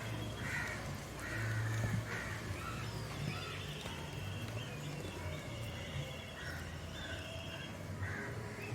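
Crows cawing in the background, a string of short caws through the whole stretch, over a low steady hum.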